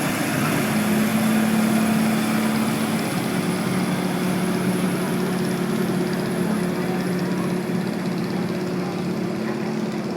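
Garden tractor engine running at a steady speed, its pitch dropping slightly about three seconds in.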